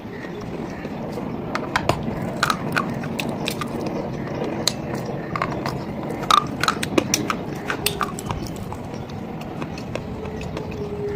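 Close-miked biting and chewing of a very hard, thick piece of slate stone: a string of sharp, irregular crunches and cracks over a steady grinding rustle.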